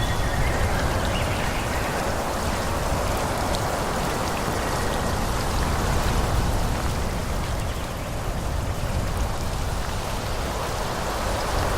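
Wind rushing through forest trees: a steady, dense rush with a low rumble underneath, easing slightly partway through.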